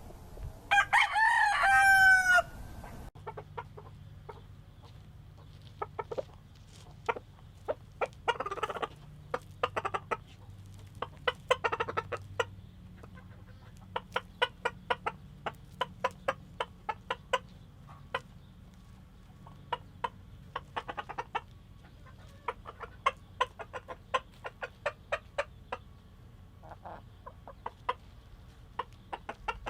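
A rooster crows once about a second in, then gives runs of short, quick clucks: the food call a rooster makes to bring his hens to food.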